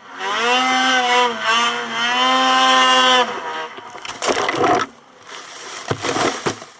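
Snowmobile engine running hard at high revs for about three seconds, its pitch dipping briefly twice and recovering, then falling away, followed by two short rushing, hissing bursts.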